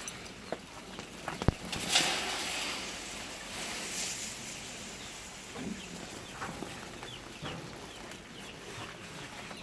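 Baby broiler chicks peeping, many short high falling cheeps. About two seconds in, a rush of chick feed being poured into a feeding pan lasts a couple of seconds.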